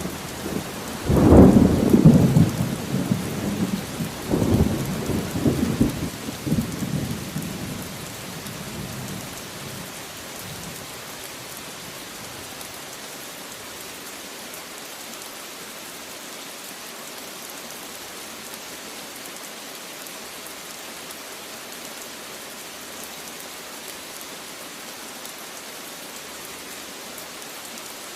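Steady heavy rain falling, with a roll of thunder that breaks about a second in, swells again a few seconds later and rumbles away within about ten seconds, leaving only the even rain.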